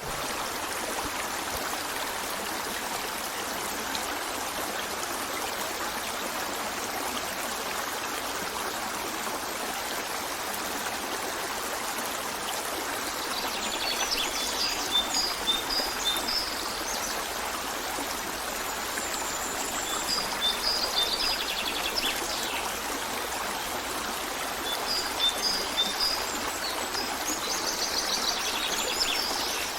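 A stream running steadily. From about halfway through, a bird joins in with several bursts of quick, high repeated notes.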